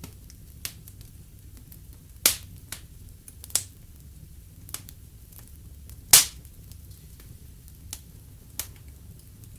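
Wood fire in a fireplace crackling: scattered sharp pops, the two loudest about two and six seconds in, over a low steady rumble of the flames.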